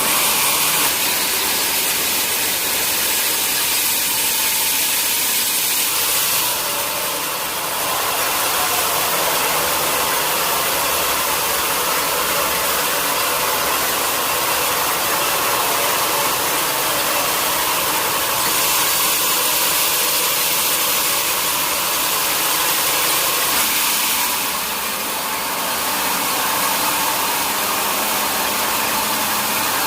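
Sawmill machinery running steadily, a loud mechanical hiss that eases off briefly twice.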